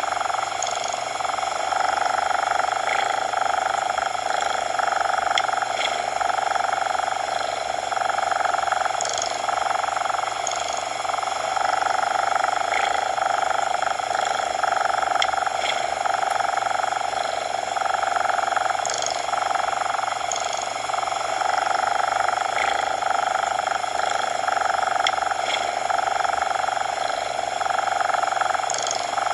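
Steady artificial coloured-noise hiss, strongest in the middle of the range, with a cat's purr swelling and fading every second or two, as its in-and-out breaths cycle, in a looped recording.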